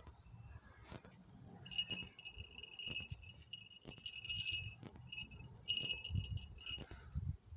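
A small bell on a Harris's hawk's leg jingling in several stretches of about a second as her feet and leather jess are handled, over soft rustling and handling noise.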